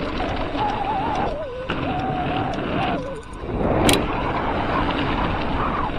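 Mountain bike rolling fast down a trail, with steady wind and rolling noise and a sharp knock about four seconds in.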